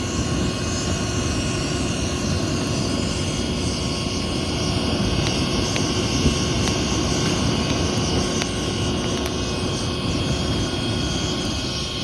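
Mini bike's small engine running at a steady speed. There are no revs up or down, and the sound starts abruptly.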